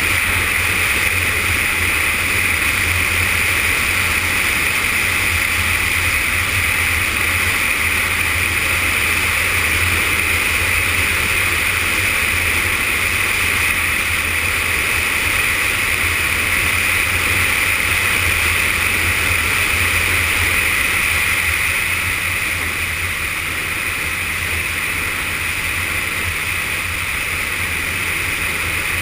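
Yamaha FZS600 Fazer motorcycle's inline-four engine running steadily while riding, mixed with riding noise. It gets a little quieter about three quarters of the way through.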